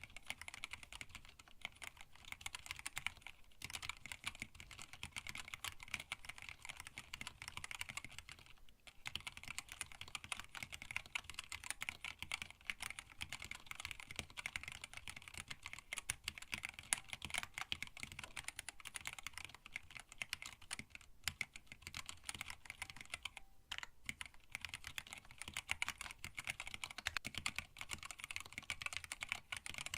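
Steady, fast typing on a hand-wired split mechanical keyboard with Tealios linear switches, PBT keycaps and a screwless stacked-acrylic case: a dense run of key clicks with a few brief pauses, about three seconds in, near nine seconds and around twenty-three seconds.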